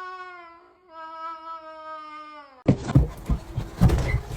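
A pet's long, drawn-out howling cry in two parts with a short break between, each sliding slowly down in pitch. It stops suddenly near the end, and clattering knocks follow.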